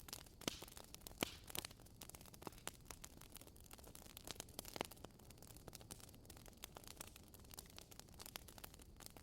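Burning firewood crackling: irregular sharp pops and snaps over a faint steady hiss.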